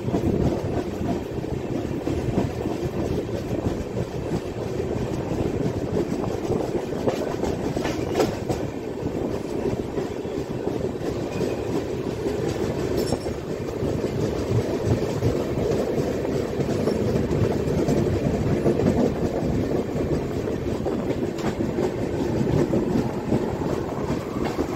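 Passenger train running along the track: a steady rumble of wheels on the rails, with a few faint clicks.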